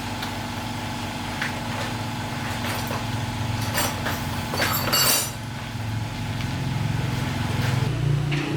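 A small engine running steadily, with short hissing bursts about four to five seconds in, and its hum growing louder near the end.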